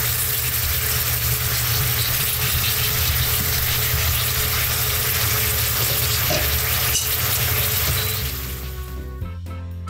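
Sliced sweet potatoes frying in hot oil in a pan: a dense, steady sizzle. Near the end the sizzle fades out and background music takes over.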